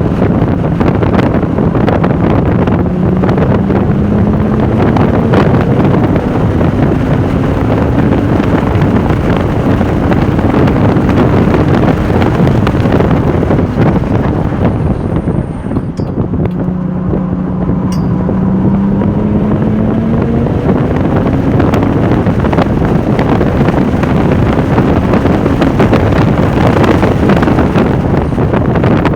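Porsche 996 Turbo's twin-turbocharged flat-six pulling hard, its pitch climbing slowly under acceleration. The note drops away briefly about halfway through and then climbs again. Wind noise on the microphone is mixed in.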